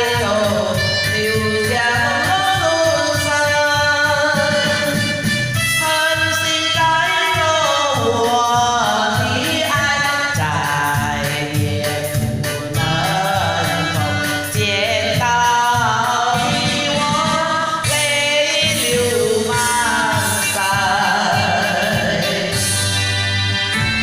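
A solo singer sings a melody with gliding notes over steady instrumental backing.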